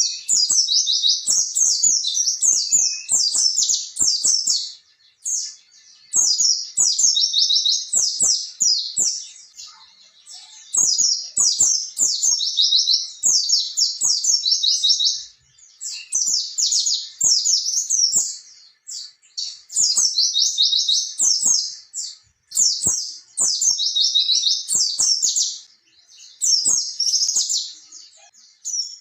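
White-eye (pleci) singing a wild-type rolling song: rapid, high-pitched chattering phrases of about two to four seconds, repeated with short pauses between them.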